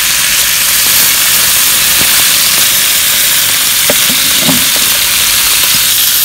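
Bacon, hot dogs and tomato halves sizzling steadily on a hot griddle plate over a solid-fuel fire, with a few faint clicks.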